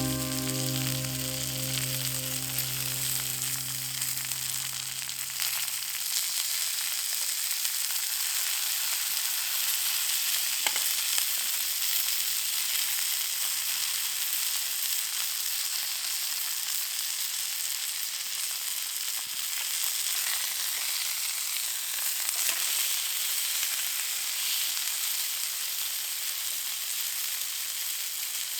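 Food sizzling and frying in a cast iron pan, a steady hiss with small crackles. Background music fades out over the first few seconds.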